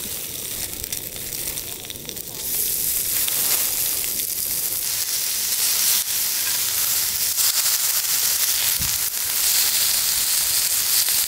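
Food frying in hot oil in a pan, a steady sizzle that gets louder about two and a half seconds in.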